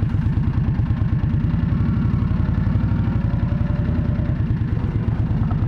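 Motorcycle engine running steadily, with a rapid low firing pulse.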